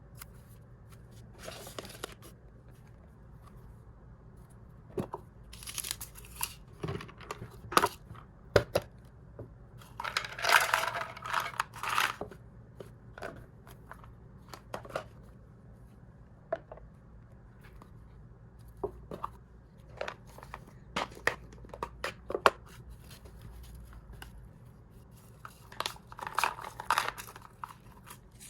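Plastic snack packaging being handled: bags cut and torn open and crinkled, with scattered small clicks and taps. There are longer spells of rustling and crinkling about a third of the way in and again near the end.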